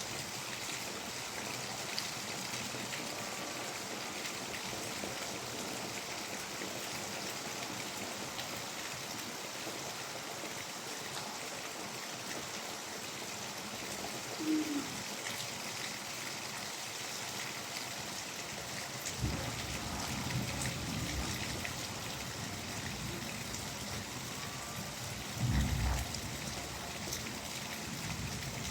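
Steady rain falling, an even hiss of drops, with a few brief low rumbles about two-thirds of the way through and again near the end.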